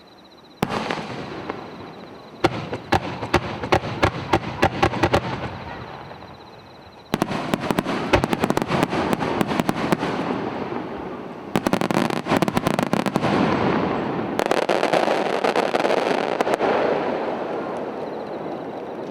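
Aerial fireworks bursting in rapid volleys of sharp reports and crackling, in several waves: one about half a second in, then fresh barrages about seven, eleven and fourteen seconds in, the last fading away in a rumble.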